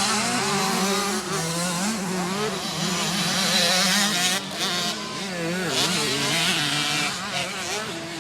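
Motocross dirt bike engines racing on the track, their pitch rising and falling as riders work the throttle and shift.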